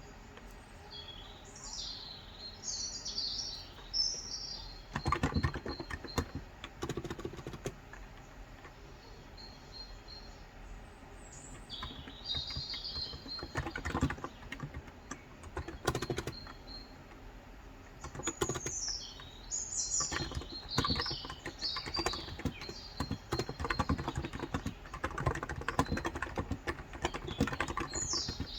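Typing on a Cox Endeavor electrostatic capacitive (Topre-style) keyboard with light 35 g switches, in bursts of quick keystrokes with pauses between. Birds chirp in the background in short bursts of high twittering calls.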